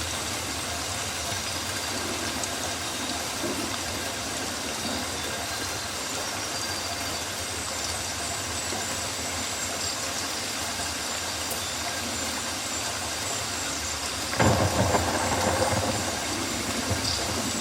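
Rainforest ambience: steady rain hiss. Near the end comes a louder, deeper burst that lasts a second or so.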